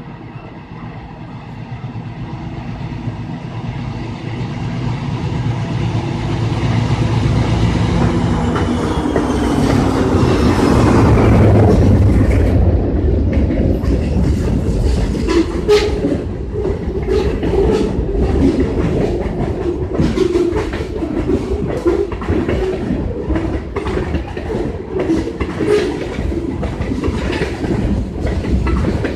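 A WNYP diesel locomotive approaches and passes, its engine getting louder and its pitch dropping as it goes by, about eleven seconds in. The railcars then roll past with a steady rumble and irregular clickety-clack over the rail joints.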